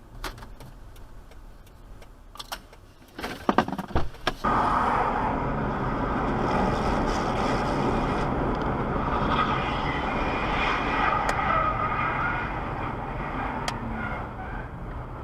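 A few faint clicks, then a quick cluster of sharp knocks about three to four seconds in, followed by steady road and engine noise of a moving car.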